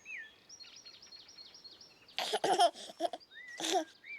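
Birds chirping and twittering throughout, with two bursts of high, child-like giggling, one about two seconds in lasting about half a second and a shorter one near the end.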